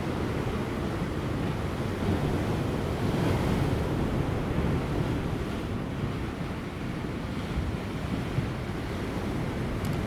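Large ocean waves crashing and washing over rocks, a continuous surging rush of surf that swells about two seconds in and eases a little past the middle, with light wind on the microphone.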